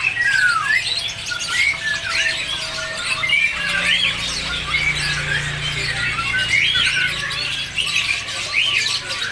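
Many caged songbirds chirping and whistling at once, a dense overlapping chorus of short rising and falling calls. A low steady hum sounds underneath from about a third of the way in until near the end.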